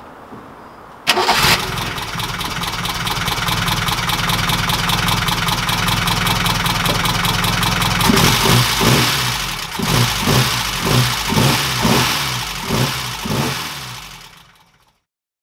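A Ford Pinto overhead-cam four-cylinder engine catches about a second in and runs with a fast, dense valve-train clatter. From about halfway it is blipped about eight times in quick succession, then dies away near the end. The owner puts the rattle down to excessive cam follower (valve) clearances.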